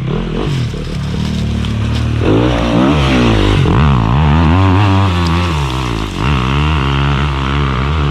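Enduro dirt bike engine running, its pitch rising and falling again and again with the throttle from about two seconds in.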